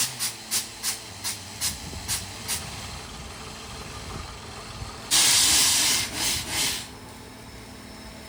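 Compressed air hissing from a borewell drilling rig: a run of short air blasts, about three a second, fading out over the first two and a half seconds, then one loud blast of air about five seconds in that lasts nearly two seconds. A low engine hum runs underneath.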